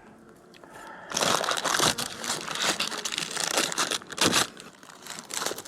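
Crinkling and crumpling as the bee feed and its wrapping are handled and pressed into place. It starts about a second in, with a lull shortly after the middle and more near the end.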